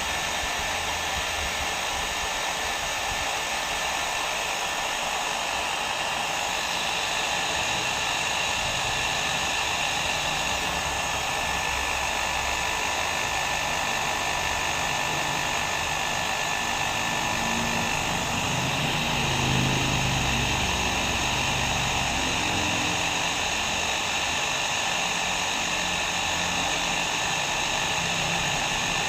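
Hair dryer blowing continuously: a steady rushing hiss of air with a faint whine from the motor.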